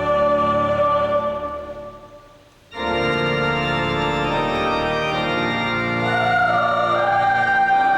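Church organ playing sustained chords. A chord dies away about two seconds in, and after a brief gap a new, fuller chord sets in suddenly and the harmony moves on near the end.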